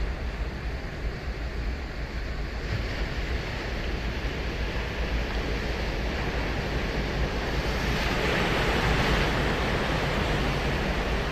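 Ocean surf washing onto a sandy beach, a wave breaking and swelling loudest about two thirds of the way through, with a low rumble of wind on the microphone beneath.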